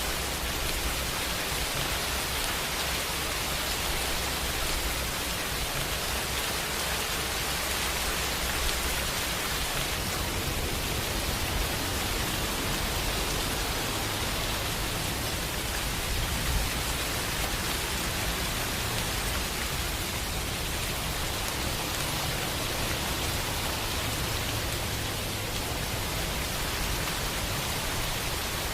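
Steady rain, an even hiss with no break, over a low rumble that shifts about ten seconds in.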